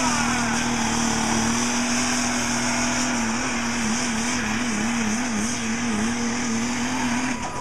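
Diesel pickup truck engine running at full throttle while pulling the sled down the track. A steady high engine note wavers up and down in the middle of the run and drops away shortly before the end.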